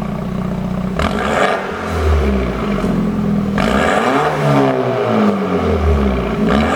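BMW F30 320i's turbocharged four-cylinder engine, idling and then revved hard a few times, with the pitch climbing and falling back after each blip. Its exhaust is tuned for pops and crackles on the overrun.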